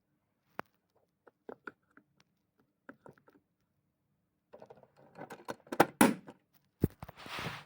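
Scattered light clicks, then a burst of louder clicks and knocks about two-thirds of the way in, and a short rustling hiss near the end: small objects being handled.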